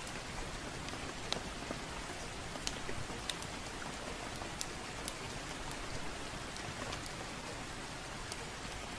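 Steady soft rain, with irregular sharp pops and crackles from a wood fire in a fireplace scattered through it, about one or two a second.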